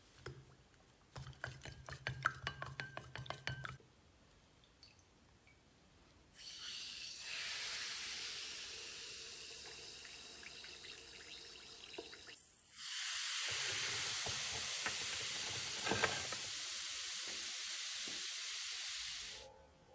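A short run of rapid clicking, then two long stretches of steady hissing spray, each about six seconds, the second louder, like compressed air or liquid sprayed through a nozzle.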